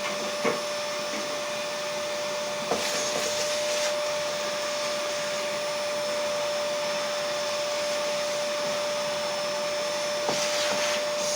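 An electric motor running steadily and moving air, with a steady hum and a light knock or two about half a second in, near three seconds and just after ten seconds.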